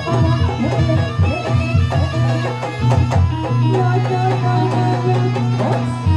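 Live jaranan music, the traditional East Javanese hobby-horse dance accompaniment: repeated drum strokes over a strong sustained low tone, with a melodic line that slides in pitch.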